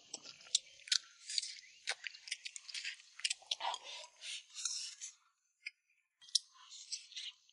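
Close-up eating sounds of someone eating boiled fish: wet chewing, lip smacks and small crisp clicks, pausing briefly a little after five seconds in and then resuming.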